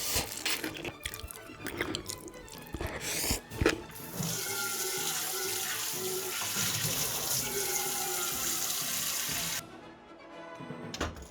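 Water running steadily from a kitchen tap, starting about four seconds in and shut off abruptly about five and a half seconds later, after a few clicks and knocks of kitchenware being handled.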